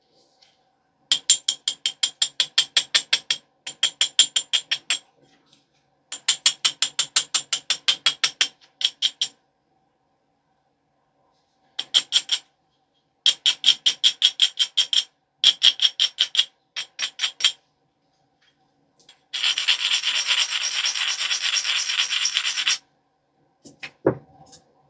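Stone abrader being rubbed along the edge of a flint biface, grinding the edge to prepare striking platforms. It comes in runs of quick back-and-forth scraping strokes, about six a second, with short pauses, then a steady scraping stretch of about three seconds near the end.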